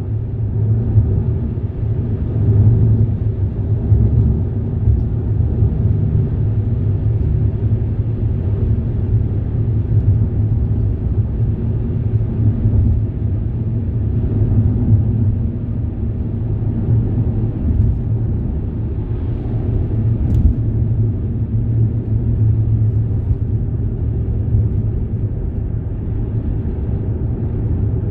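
Steady low rumble of a moving vehicle, even throughout, with one brief sharp click about two-thirds of the way through.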